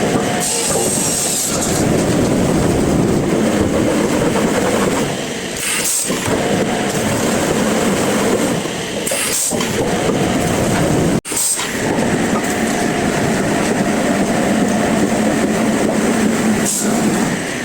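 Sawmill machinery running with a steady, loud rumble, easing off briefly every few seconds. The sound cuts out abruptly for an instant about two-thirds of the way through.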